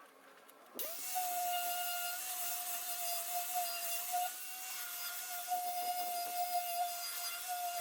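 Angle grinder fitted with a paint removal wheel, spinning up about a second in and then running at steady speed with a high whine over a hiss, stripping rust and paint from a steel motorcycle handlebar.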